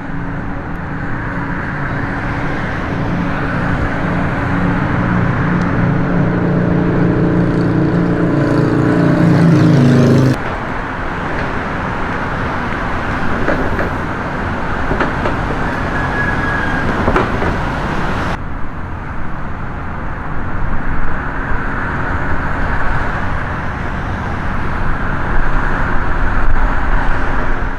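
Road traffic noise: for about the first ten seconds a vehicle engine's steady hum, rising slightly in pitch, then a broad wash of passing traffic, with two abrupt changes where the recording is cut.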